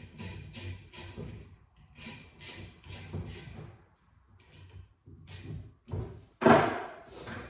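Irregular knocks and clunks of tools and parts being worked on a car's blower motor assembly, with one loud thud about six and a half seconds in.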